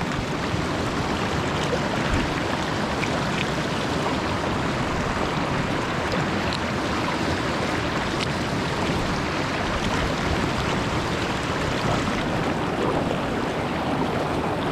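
Steady rush of a shallow mountain stream running over stones, with a few faint ticks.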